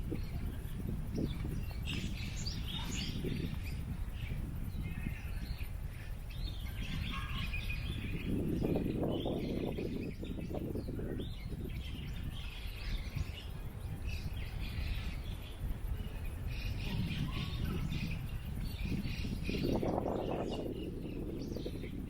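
Small birds chirping on and off over a steady low wind rumble; the wind swells in two gusts, one about a third of the way in and another near the end.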